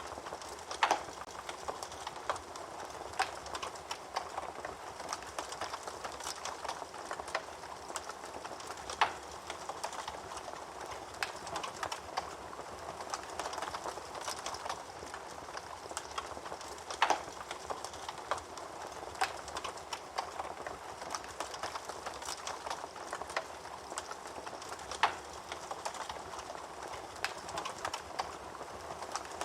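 Wood fire burning in a fireplace, crackling steadily, with four louder, sharper pops spread evenly through the stretch.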